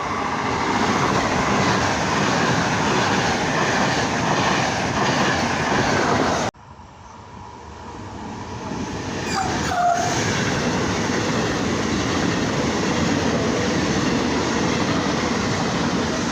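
Passing trains: one train running by with steady rolling noise, then a sudden cut about six and a half seconds in to another train that grows louder as it approaches and runs past. A short high tone sounds during that approach.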